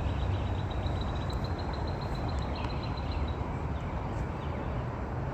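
A small bird's high, rapid trill of evenly repeated chirps, about eight a second, stopping about three seconds in, over a steady low rumble of outdoor background noise.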